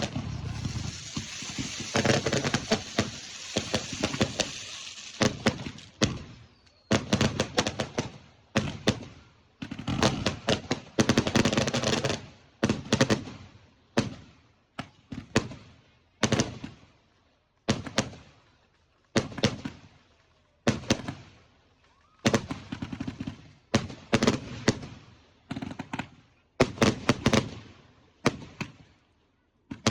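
Fireworks going off in a rapid barrage. A dense crackling salvo fills the first few seconds, then comes a string of sharp bangs, roughly one a second, each with a short fading crackle.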